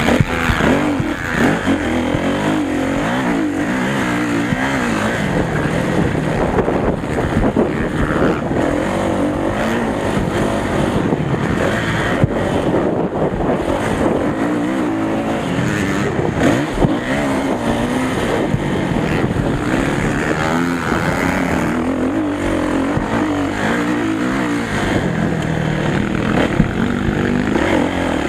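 Motocross bikes running on a track, their engines revving up and down again and again as they accelerate and back off.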